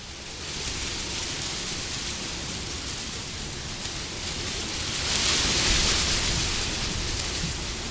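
Wind blowing as a steady rushing noise, swelling into a stronger gust about five seconds in and then easing back.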